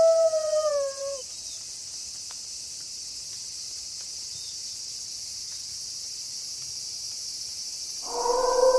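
A wolf's long howl drops in pitch and dies away about a second in, leaving a steady high chorus of crickets. Near the end another wolf howl begins on a lower, held note.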